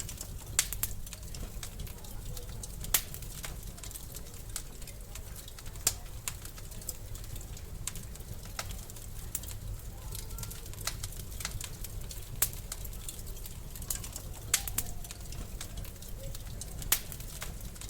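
Wood fire crackling in a fireplace: scattered small snaps and sharper pops every two or three seconds over a steady low rumble of the burning logs.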